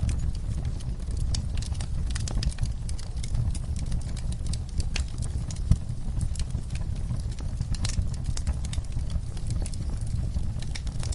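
Wood fire in a fireplace crackling: irregular sharp pops and snaps over a steady low rumble of the flames, with one louder pop a little past the middle.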